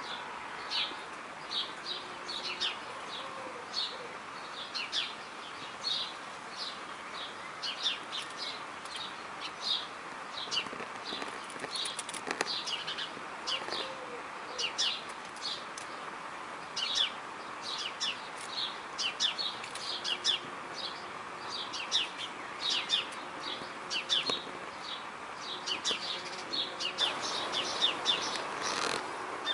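Small birds chirping: many short, high chirps come about two a second over a steady background hiss.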